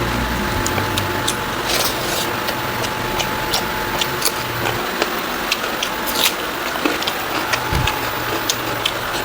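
Close-miked eating sounds: chewing with frequent short wet clicks and smacks of the mouth, over a steady background hiss and low hum.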